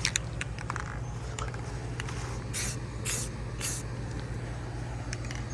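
Aerosol spray-paint can sprayed in three short hissing bursts, about two and a half seconds in, over a steady low hum.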